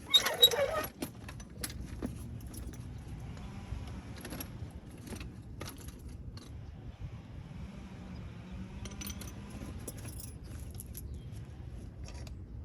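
Metal hand tools clinking and rattling: a loud jangle in the first second, then scattered light clicks and knocks.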